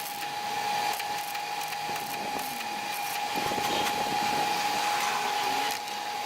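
Welder running continuously as a steel patch panel is welded into a rusted wheel well: a steady crackle and hiss with a constant whine under it.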